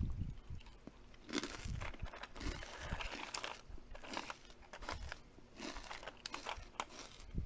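Crunchy food being bitten and chewed: irregular crunches and crackles, with a few low thumps near the start.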